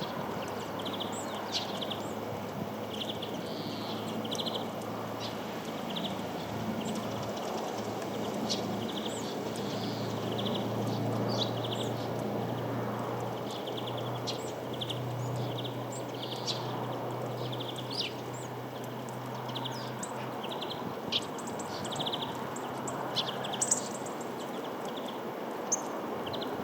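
Small songbirds at a feeder chirping and giving short trilled calls again and again, over steady outdoor background noise. A low steady hum runs underneath and fades out about twenty seconds in.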